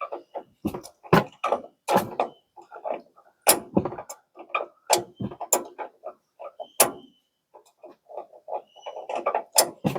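Irregular sharp knocks and clanks, several a second at times, of tools and metal parts being handled while an old shock absorber is worked loose from the truck's suspension.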